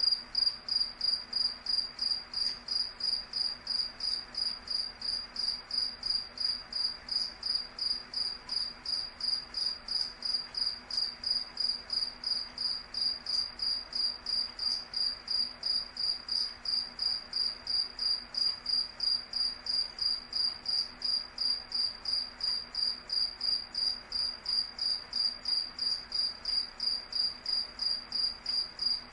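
A cricket chirping steadily: an even train of high-pitched chirps, about two to three a second.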